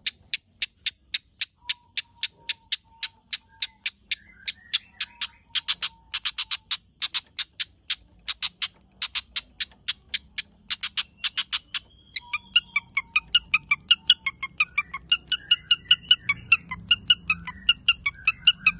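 Long-tailed shrike (cendet) calling: a long run of sharp, clicking notes at about three to four a second. From about two-thirds of the way through, the notes mix with quicker, varied chattering and warbling phrases.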